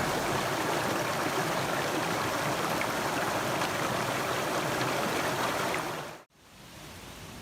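Mountain stream flowing steadily, an even rush of water that cuts off abruptly about six seconds in, replaced by a much quieter, faint hiss of background ambience.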